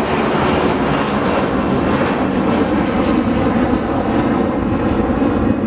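Virginia Railway Express commuter train running, a loud, steady mechanical noise without breaks.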